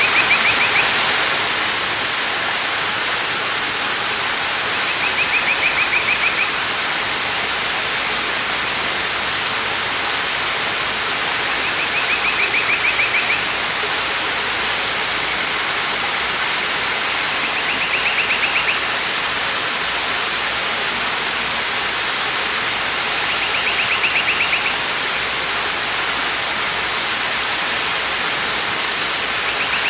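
Waterfall: a steady rush of falling water. Over it, a short high buzzing trill of about a second and a half repeats roughly every six seconds.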